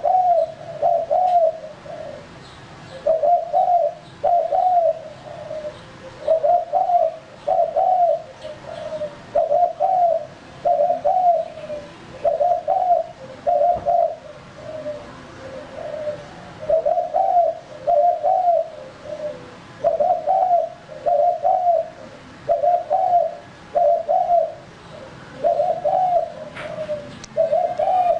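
Male spotted dove (tekukur) cooing: short phrases of two or three low coos, repeated again and again with brief pauses between.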